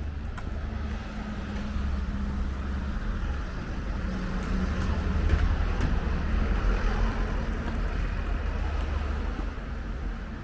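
A motor vehicle's engine running close by, a low rumble that builds to a peak about halfway through and then eases off as the vehicle passes.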